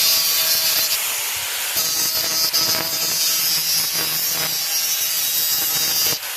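Power grinder grinding the galvanized coating off a steel pipe, a steady loud grinding that cuts off near the end.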